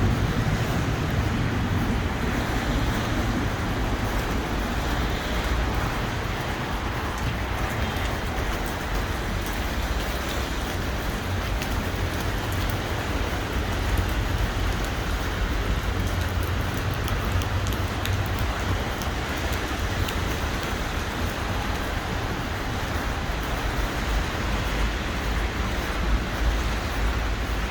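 Steady outdoor city street ambience: an even hiss over a constant low rumble, with scattered faint ticks.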